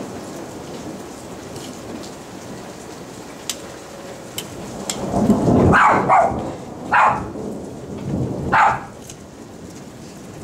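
Steady rain falling on a hard surface. From about halfway through, a dog barks about four times in short bursts.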